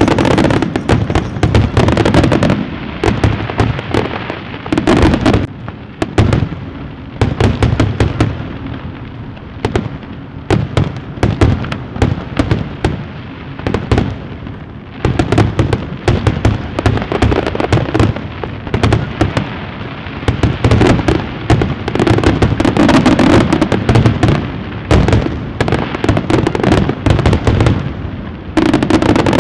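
Fireworks going off in a continuous barrage of bangs and crackling, the explosions coming thick and fast with a few brief, thinner stretches.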